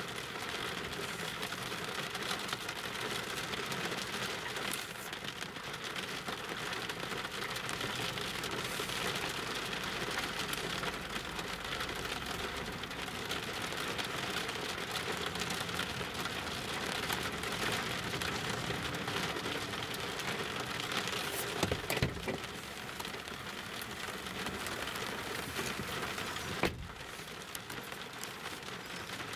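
Heavy rain falling on a car's roof and windshield, heard from inside the car as a steady dense patter. A couple of sharp knocks come about two thirds of the way in, and another a few seconds later.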